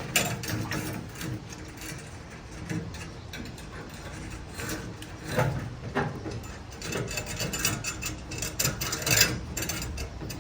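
Doubled mechanic's tie wire being wrapped and twisted tight: irregular metallic clicking and scraping, with a few sharper knocks.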